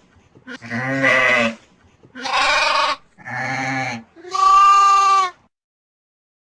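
Sheep bleating four times in a row, each bleat under a second long. The last bleat is higher and steadier in pitch.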